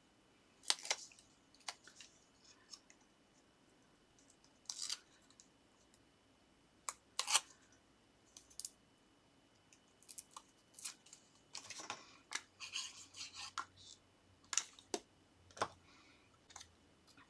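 Short, scattered scratchy rustles and light taps of paper and card being handled while foam pads are stuck on and a paper topper is pressed into place, with a busier run of them near the end.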